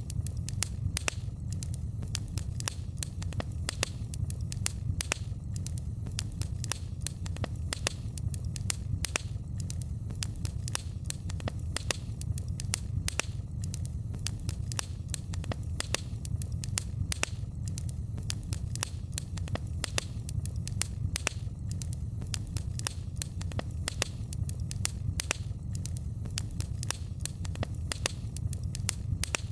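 Wood fire in a fireplace crackling steadily, with many quick, irregular sharp pops over a low, even rumble of the flames.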